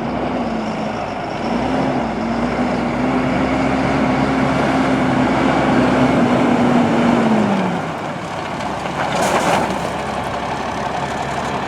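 2000 Freightliner FL80 truck's diesel engine running, brought up to a higher speed and held there, then dropping back to a lower speed near eight seconds in. A short burst of air hiss, as from the truck's air brakes, comes about nine seconds in.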